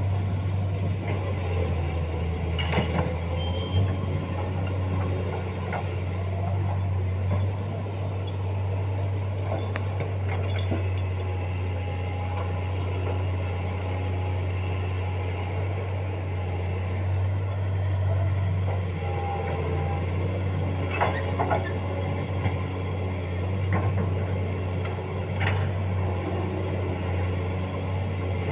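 Excavator's diesel engine running steadily at a constant low drone, with a few short knocks or clanks from the machine.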